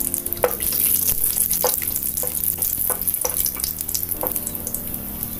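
Cashew nuts sizzling as they fry in hot ghee in a non-stick pan, with a steady crackle. A wooden spatula stirs them, scraping and knocking against the pan about six times.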